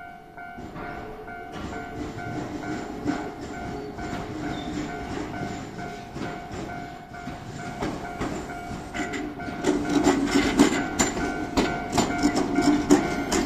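Shizuoka Railway 3000-series electric train approaching and passing over a level crossing, growing louder, its wheels clicking and clacking over the rail joints from about nine seconds in. The crossing's warning bell rings steadily in a repeating pattern underneath.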